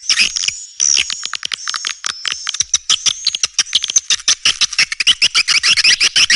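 Swiftlets calling in a rapid twittering chatter. High thin whistled notes run through the first half, and the chirps quicken into a dense run of about eight a second near the end.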